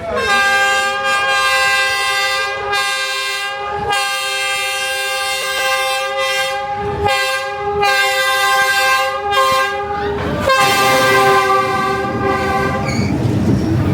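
Train horn blowing a string of long, steady blasts with short breaks between them as the train passes close by.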